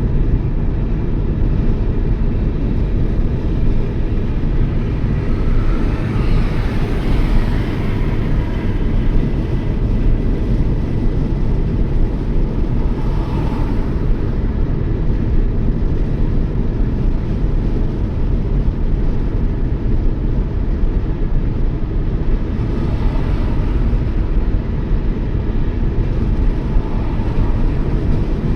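Steady road and engine noise of a Toyota Yaris cruising at highway speed, with three brief swells of hiss from passing vehicles.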